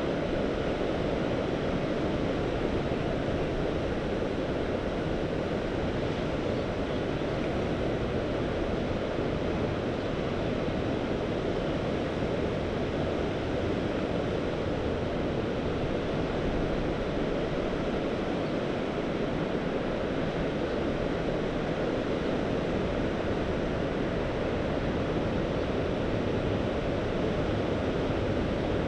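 Mediterranean Sea surf: a steady, even rush of waves washing ashore, with no single breaking wave standing out.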